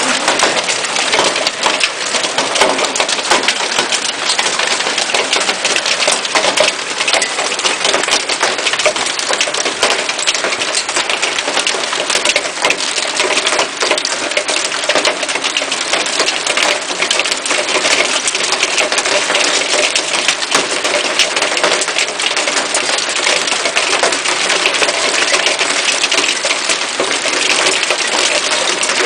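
Hailstorm: hailstones and heavy rain pelting hard surfaces, a dense, unbroken clatter of small hits over a steady downpour hiss.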